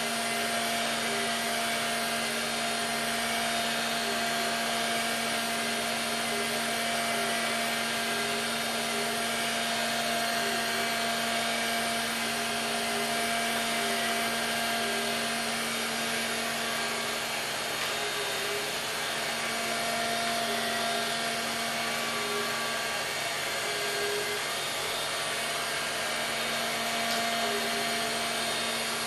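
Robotic vacuum cleaner running: a steady motor hum and whirr with a constant drone and a faint whine.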